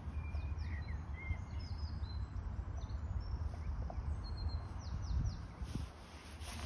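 Small birds chirping: many short, high calls, mostly in the first five seconds, over a steady low rumble of outdoor background noise.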